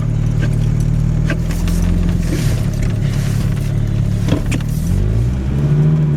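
1991 Chevy S10's 2.5-litre four-cylinder engine running under load as the truck works its way out of deep snow. The engine pitch climbs about five seconds in, and a few light knocks sound along the way.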